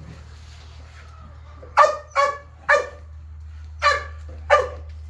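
A dog barking in five short, sharp barks, two quick pairs and then one more, begging for bacon, over a steady low hum.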